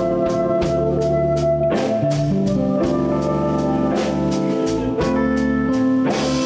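Electric blues band playing an instrumental stretch: a drum kit keeps a steady cymbal beat under bass and guitar, with long held notes on top.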